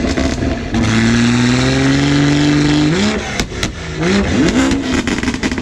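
A performance car engine held at high revs for about two seconds, its pitch creeping up, then blipped up sharply. A couple of sharp exhaust pops follow, then two more quick revs.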